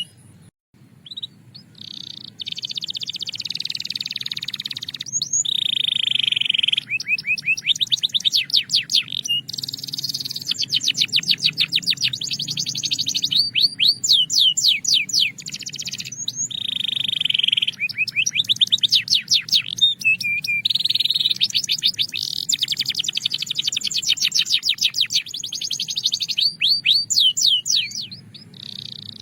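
Belgian canary singing continuously in long rolls and trills of rapidly repeated high notes, with a short pause about a second in.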